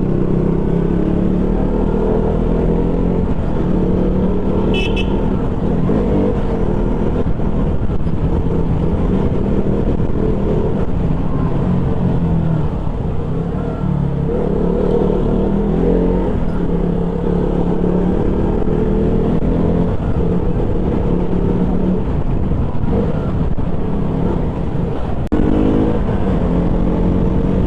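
KTM Duke 200's single-cylinder engine running under way, its pitch stepping up and down with throttle and gear changes. A brief high beep sounds about five seconds in.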